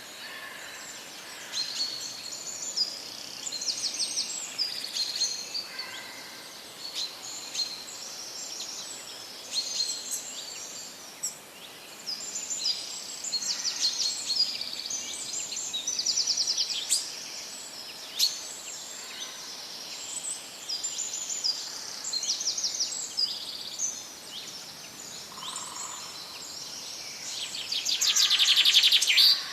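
Several songbirds chirping and trilling, one call after another, over a faint steady hiss, with the loudest, longest trill near the end.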